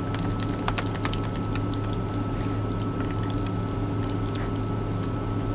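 Steady low hum of the truck's idling engine in the cab, with a constant faint high tone over it. A few light clicks and scrapes of a spoon mixing tuna salad in a container come through, most in the first second.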